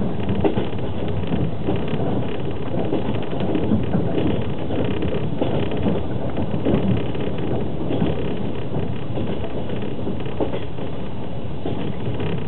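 Steady running noise of a Russian long-distance passenger train at speed, wheels on rails, heard from inside a platzkart sleeping car, with a few light knocks.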